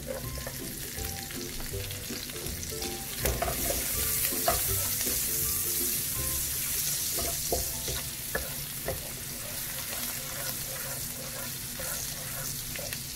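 Minced garlic and bird's eye chilies sizzling in melted margarine in a white-coated pan, with a wooden spatula stirring and scraping through them and clacking against the pan now and then. The hiss of the frying grows stronger for a few seconds in the middle.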